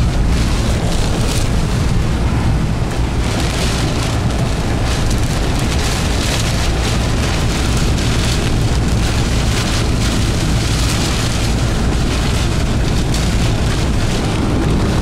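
Car driving at about 35 mph through a severe thunderstorm, heard from inside the cabin: a steady low road and engine rumble under gusty rushes of wind and rain.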